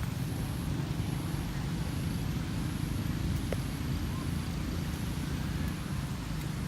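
Steady low rumbling background noise, with a few faint short chirps now and then.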